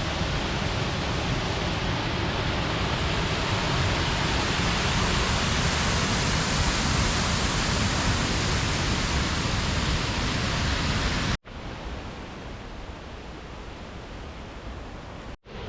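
Steady rush of falling water from a waterfall, Twin Falls, heard close. About eleven seconds in it cuts off abruptly and a quieter, steady rush follows, broken by another brief gap near the end.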